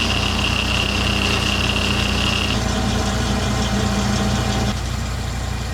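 Tractor engine idling steadily while warming up, with a steady high whine over it that stops about two and a half seconds in. The engine sound drops a little near the end.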